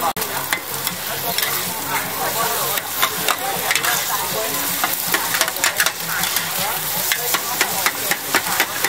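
Egg batter for oyster omelette sizzling on a large flat pan while two metal spatulas chop and scrape through it, with frequent irregular clacks of steel on the pan, coming thicker from about halfway through.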